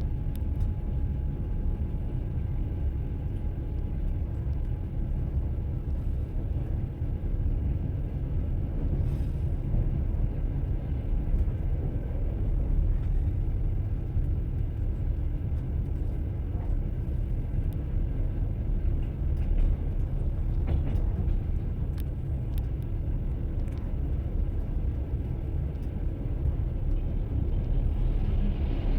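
Train running on rails: a steady low rumble of wheels on track, with a few faint clicks.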